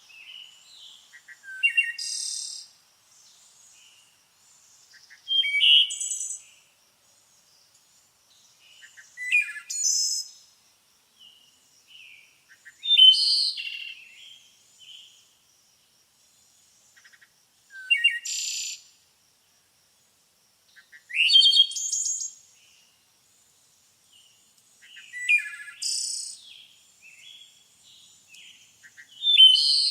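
A songbird singing short, varied phrases, one about every four seconds, each mixing whistled notes with a higher buzzy trill, in quiet surroundings.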